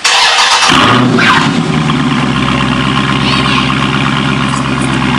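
Dodge Charger Scat Pack's 6.4-litre HEMI V8 starting up through Dynomax Mini Race Bullet mufflers fitted in place of the mid mufflers: a brief crank, the engine catches under a second in and flares, then settles into a steady idle.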